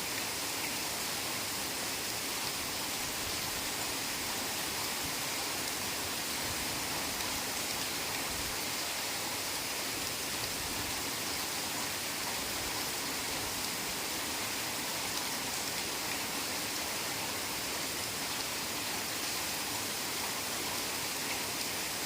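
Heavy rain falling steadily, a dense even hiss of drops with no separate splashes standing out.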